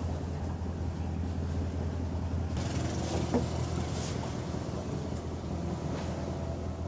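A boat engine running steadily with a low, even hum, with a rush of wind or water hiss rising about two and a half seconds in.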